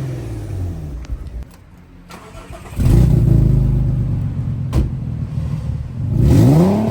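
Audi A3 3.2's VR6 engine through a muffler-deleted sport exhaust: the revs fall away and drop off to a quiet lull, then the engine fires loudly about three seconds in, settles to a deep, steady run, and revs up quickly near the end.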